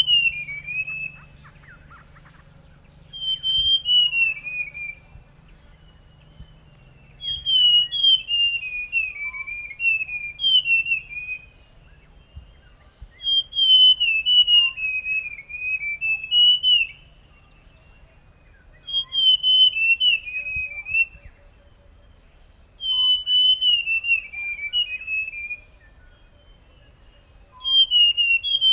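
Forest scrub-robin (buff-brown scrub-robin) singing: short phrases of clear whistled notes that step downward in pitch, repeated every few seconds, with pauses between them.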